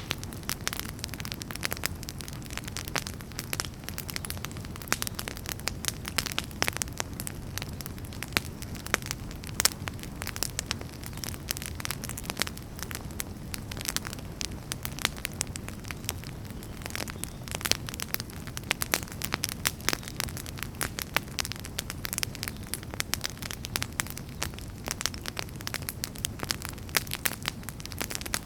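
Wood fire burning in a fireplace: a steady low rumble of the flames under dense, irregular crackles and sharp pops.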